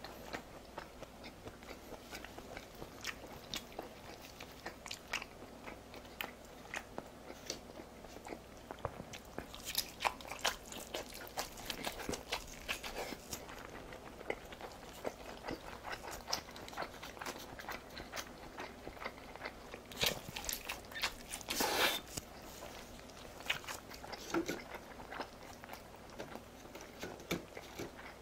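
A person chewing a mouthful of food: an irregular run of small wet clicks and smacks from the mouth, denser and louder about ten seconds in and again about twenty seconds in.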